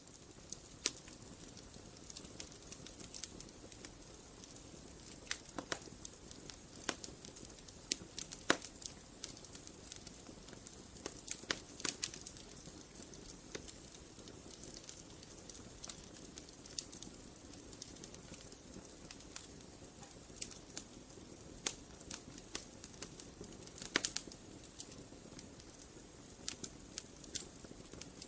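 Wood fire crackling: irregular sharp pops and snaps, a few of them louder, over a steady low hiss of burning.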